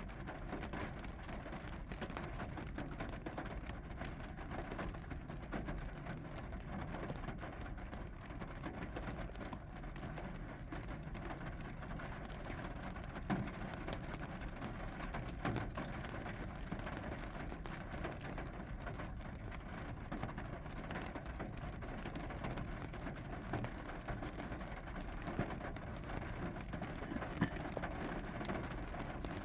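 Steady rain falling, with many scattered drops landing.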